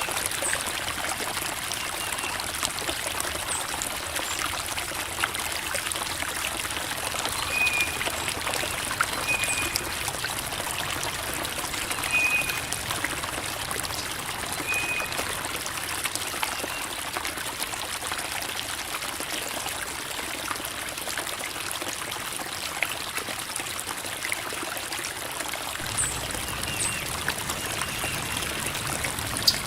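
Creek water babbling and trickling over rocks, a steady, even flow. A few faint short high peeps sound over it in the middle of the stretch.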